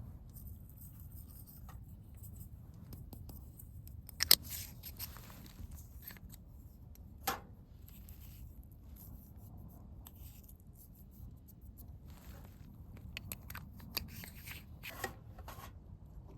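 Rustling and handling noises, as of things being picked up, unwrapped or cut, with a few sharp clicks, the loudest about four seconds in, over a steady low rumble.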